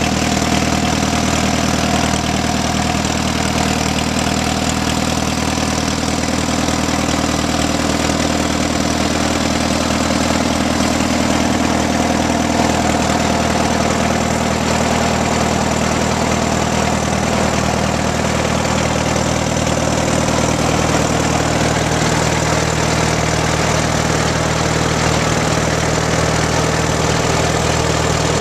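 1938 Case C tractor's four-cylinder engine running steadily at idle. Its sound changes a little about halfway through, losing some of its middle while the low tones stay the same.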